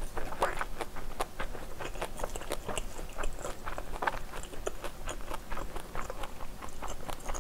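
Close-miked chewing of a mouthful of kimchi fried rice: repeated wet mouth clicks and smacks. About four seconds in, a spoon scoops more rice from a stainless steel pan.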